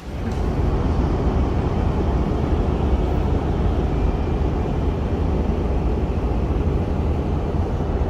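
Steady, loud rumble of an airliner heard from inside the cabin, mostly low-pitched, holding level throughout.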